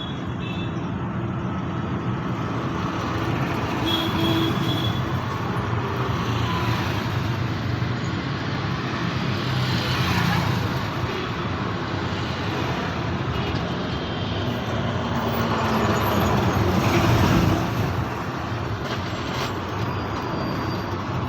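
Road traffic with trucks and other vehicles: a continuous engine rumble with vehicles passing one after another. The loudest pass-bys come about ten seconds in and again about three-quarters of the way through.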